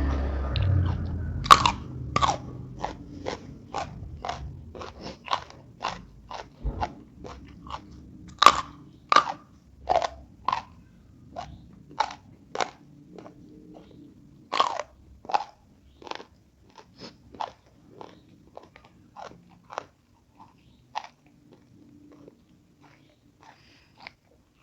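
A person chewing crunchy food close to the microphone, with a crisp crunch about one and a half times a second. Three louder fresh bites come at intervals, and the chewing grows fainter near the end.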